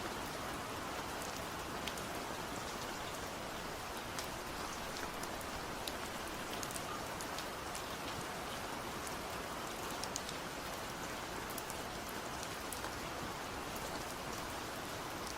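Steady rain falling, with a constant hiss and scattered sharp ticks of individual drops hitting a surface.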